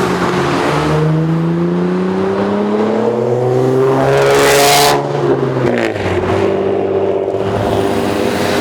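A car engine revving, its pitch climbing for about four seconds to a loud peak about five seconds in. It then cuts off sharply and falls back to a lower, steadier note.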